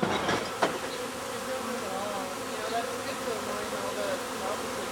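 Dense buzzing of a honey bee swarm in flight, with single bees' wavering whine rising and falling as they pass close. Two or three sharp knocks in the first second.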